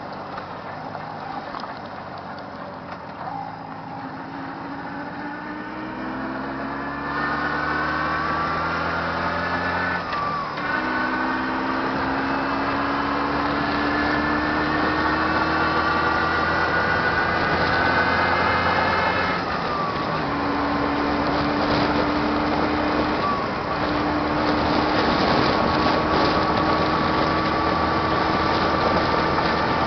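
Jawa 638 motorcycle's newly rebuilt two-stroke twin engine under way. It rises in pitch as the bike accelerates, drops at a gear change about ten seconds in and again about twenty seconds in, then holds a near-steady pitch while cruising, with a growing rush of wind noise underneath.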